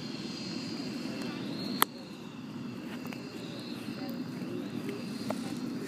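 Indistinct voices of people talking outdoors, with a sharp click about two seconds in.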